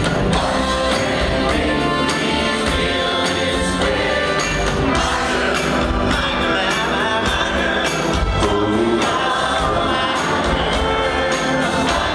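Male vocal group singing a Motown song in close harmony, backed by a live band with a steady beat.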